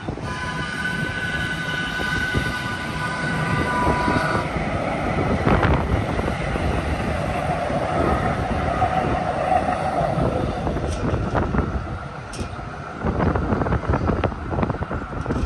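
Mechanical grade-crossing bell ringing as two DART light rail trains pass over the crossing. The bell's ringing tones stand out for the first few seconds, then the trains' wheels and motors on the rails take over with a loud rumble and whine that eases off after about 12 seconds.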